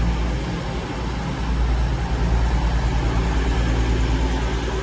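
East Midlands Railway Class 222 Meridian diesel-electric multiple unit running through the station, its underfloor diesel engines giving a steady low rumble and hum.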